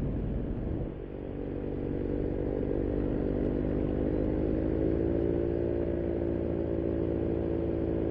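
Paramotor's Vittorazi Moster 185 single-cylinder two-stroke engine running in flight. About a second in the sound dips briefly, then the engine runs on at a steady, even pitch.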